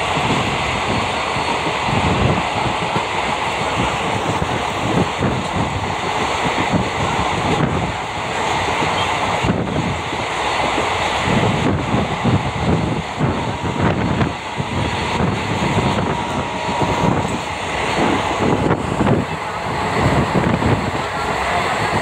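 Passenger train running at speed, heard from on board at the open side of the coach: a steady rumble and rattle of the wheels on the rails.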